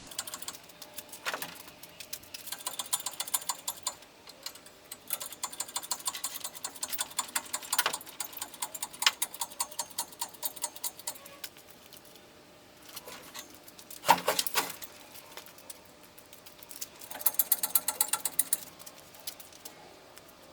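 Hand ratchet wrench clicking in fast runs of many clicks a second, in several bursts, with a single louder knock about two thirds of the way through.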